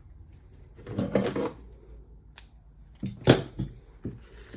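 Cardstock and linen thread being handled while a knot is tied: a short rustle about a second in, then a few light clicks and knocks, the loudest a little past the middle.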